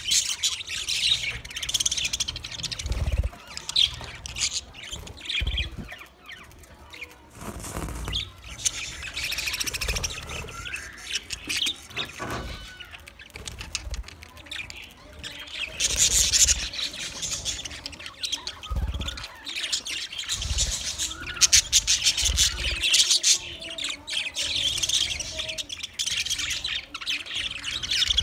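A flock of budgerigars chattering and chirping together, many birds overlapping in waves of busy high twittering with some harsher squawks. Occasional short low thuds can be heard among the calls.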